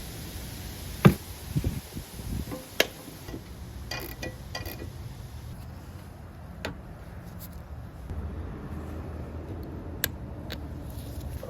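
Irregular sharp clicks and knocks of tools and parts being handled during work on a car's cooling system, over a low steady rumble. The loudest knocks come about a second in and just before three seconds.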